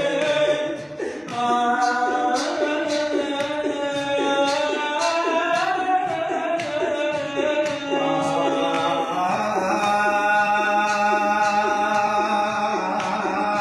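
Male voices singing a Shia Husseini lament (latmiyya), with long held notes over a steady beat of strikes about twice a second.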